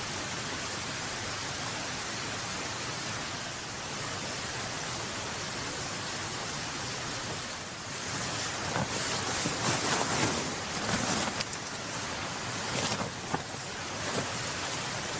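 Steady outdoor hiss, then from about eight seconds in irregular rustling and handling noises with a few light clicks.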